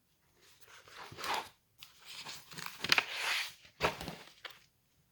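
Rustling and crinkling in several short bursts, like something being handled, with a sharp knock about four seconds in.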